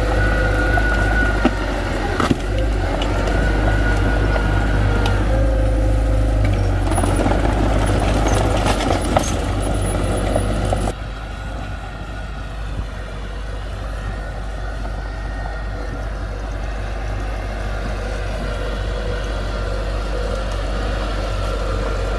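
Diesel engines of heavy earthmoving equipment running, with a deep steady rumble, a steady whine, and a few sharp knocks. The sound drops suddenly to a lower, duller running about halfway through.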